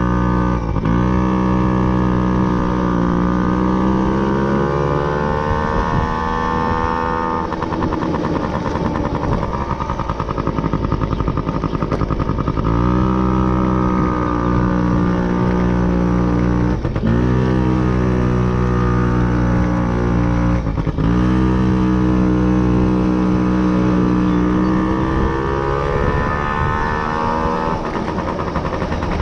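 Motorcycle engine running under way, its note climbing and falling with the revs. It is cut by five brief breaks where the pitch jumps, as at gear changes, over a steady rush of wind and road noise.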